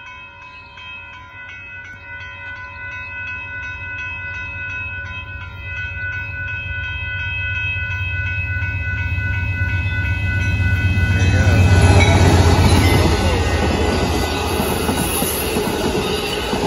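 A grade-crossing bell rings steadily while an Amtrak passenger train approaches, its low rumble growing louder. About eleven seconds in, the train reaches the crossing and the rumble turns into the loud rush and rattle of double-deck passenger cars rolling past on the rails.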